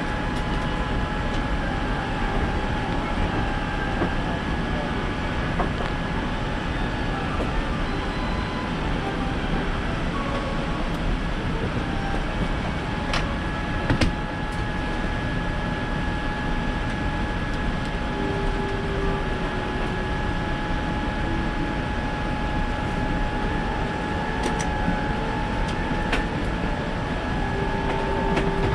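Steady cabin noise inside a Boeing 787-9 airliner: an even rush of air with a steady whine running through it, and a few light knocks.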